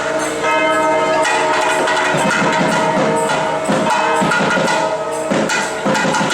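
Bells ringing continuously, layered with devotional music and percussion; from about two seconds in, a wavering melody joins in the lower register.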